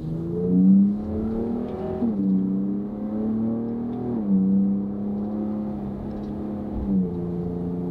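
Ford Raptor's 3.5-litre twin-turbo EcoBoost V6 pulling through a Borla Atak exhaust, heard from inside the cab. Its note rises at first, then steps down in pitch three times as the ten-speed automatic upshifts, at about two, four and seven seconds in.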